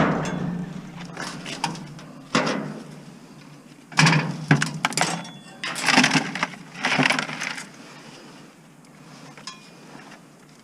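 Metal parts clanking and clattering as an appliance is pulled apart for scrap: a run of separate knocks and rattles, the loudest bunched in the middle, dying down to small handling noises near the end.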